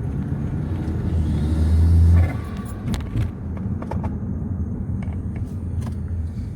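2012 Acura RDX's turbocharged 2.3-litre four-cylinder, heard from inside the cabin through a straight-piped exhaust with the rear mufflers deleted and a Magnaflow glasspack resonator: a low drone that builds under acceleration, loudest about two seconds in, then drops off sharply.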